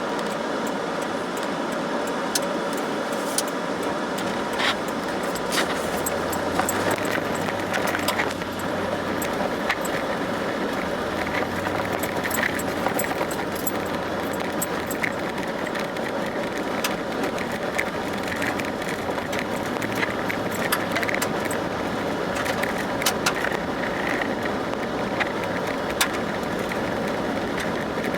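Steady road noise inside a moving vehicle, with light rattles and jingling clicks throughout and a low hum that swells for a while in the middle.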